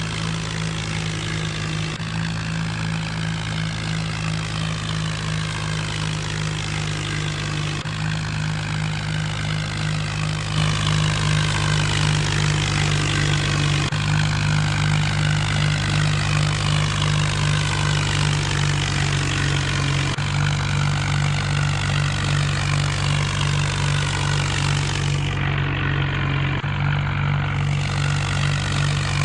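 HMT tractor's diesel engine running steadily, a bit louder from about ten seconds in.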